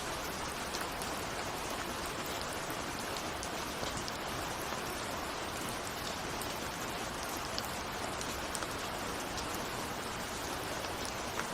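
Steady rain, a constant hiss with many small drops pattering on a window.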